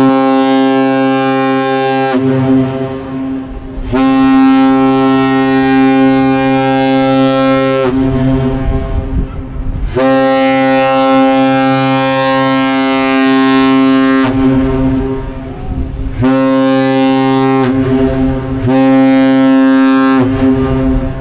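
The master salute: a deep, steady horn sounded three long blasts and two short ones, exchanged between a departing lake freighter and the Duluth Aerial Lift Bridge. The first long blast is already sounding and ends about two seconds in.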